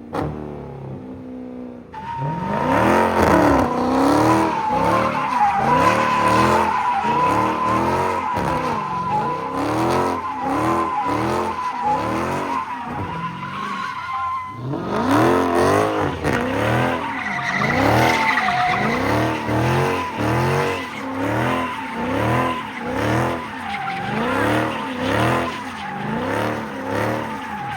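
Muscle car doing a burnout: the engine revs up and down over and over while the spinning rear tires squeal with a steady high screech. The burnout runs in two bouts, with a brief let-up about halfway through.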